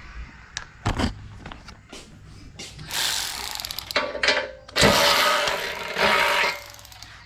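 A 1/4-inch drive tool with a bit adapter working a bolt on the wood chipper. First come scattered clicks, then louder stretches of rasping, ratcheting mechanical noise about halfway through and again a little later, each lasting a second or so.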